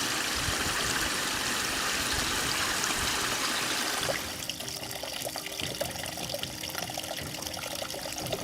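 Running water, an even rushing for about four seconds, then a sudden change to a quieter, thinner trickling with scattered drips.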